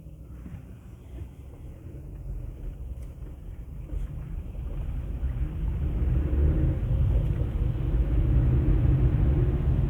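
Car driving, heard from inside the cabin: a low rumble of engine and road noise that grows steadily louder over the first six seconds, then holds.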